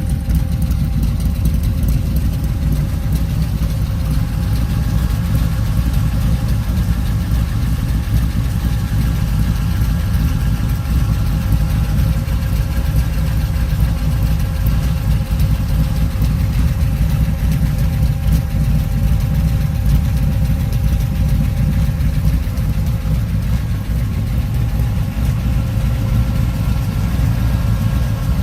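A 1923 Ford T-Bucket hot rod's small-block Chevy 327 V8 idling steadily.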